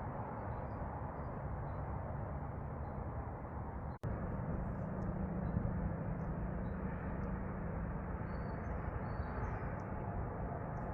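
Steady outdoor noise, then, after a brief cut about four seconds in, a steady low hum of a female Bombus ardens bumblebee buzzing close by, with faint bird chirps in the background.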